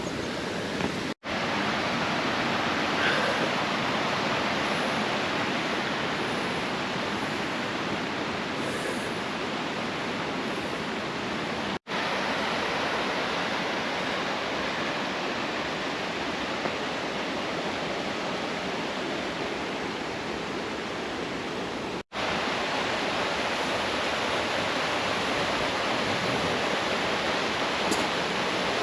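Steady rushing of a mountain waterfall, an even roar of falling water that drops out for an instant three times.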